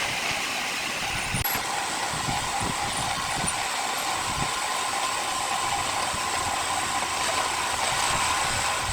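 Heavy machinery running steadily, a constant mechanical noise with a held whine.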